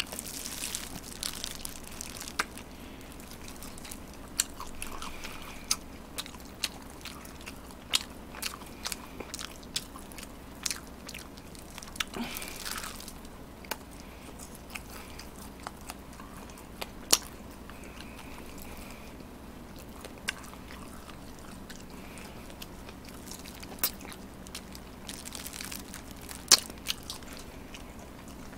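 A person biting into and chewing fried chicken, with many short crisp crunches scattered throughout; two crunches stand out louder, about 17 seconds and 26 seconds in.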